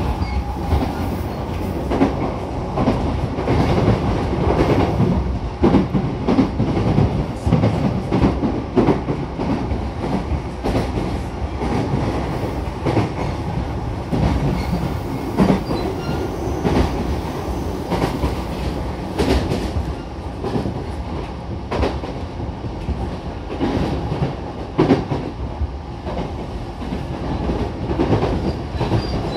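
Running noise inside a JR E233-7000 series electric train car: a steady low rumble of wheels and bogies on the track, with irregular sharp clacks from the rails.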